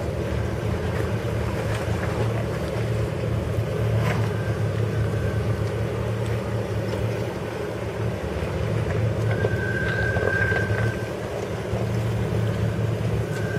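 Off-road 4x4's engine running steadily at low speed while crawling over a trail obstacle, a continuous low drone that swells slightly now and then.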